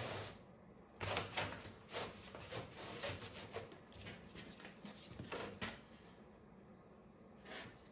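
Light clattering and knocking of thin wooden strips being handled and laid together for a glue-up, a quick run of taps for several seconds, then one more knock near the end.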